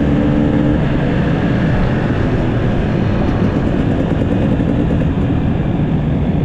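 Motorcycle engine running steadily while riding, mixed with heavy rushing noise.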